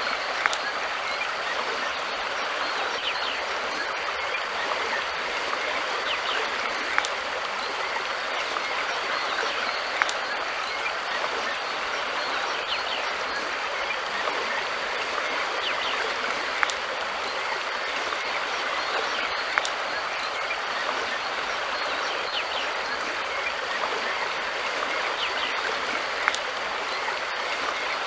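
River water flowing steadily with an even rushing sound, with a few sharp ticks a few seconds apart.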